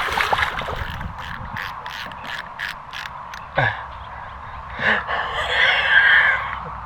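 Fishing reel ratcheting in a run of evenly spaced clicks, about four a second, while a big blue catfish is being played on the line. A short hissing rush follows near the end.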